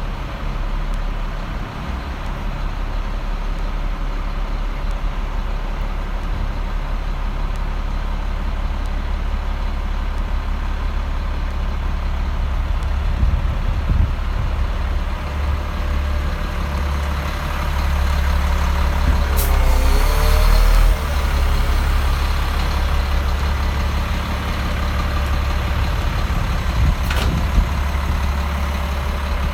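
Diesel engine of a 2007 Freightliner M2 106 truck running steadily at idle. It gets louder for a few seconds past the middle, then drops back suddenly. Two sharp clicks come in the second half.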